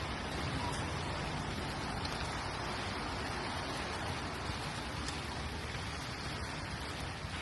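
Steady rain falling on a city street: an even hiss with a low rumble underneath.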